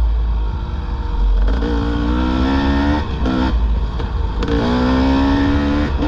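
Dirt bike engine revving under throttle while riding. Its pitch climbs twice, about one and a half and four and a half seconds in, with a dip in between, over a steady low rumble.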